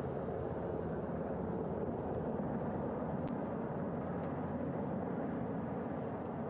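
Helicopter hovering as it comes in to land on a ship's flight deck, a steady rotor and engine noise. A brief click about three seconds in.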